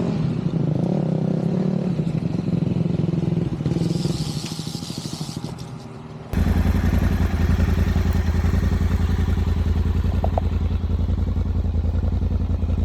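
Yamaha Tenere 700 adventure motorcycle's engine running on the move, then easing off and fading, with a brief hiss about four seconds in. Partway through, a sudden cut brings in a louder, steady, deep pulsing engine sound.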